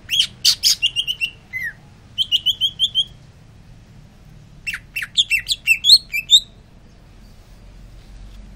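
A cucak ijo (green leafbird) singing in three quick bursts of sharp, sliding chirps, each a rapid run of notes, with pauses between them.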